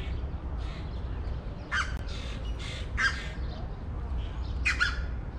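A bird giving harsh, cawing calls: four in quick succession about two seconds in, and one more near the end.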